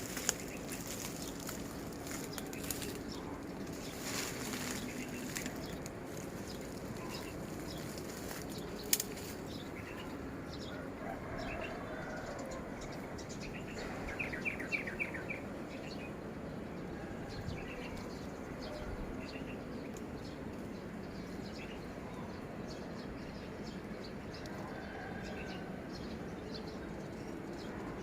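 Birds chirping now and then over a steady background hum, with a quick run of rapid repeated notes about halfway through.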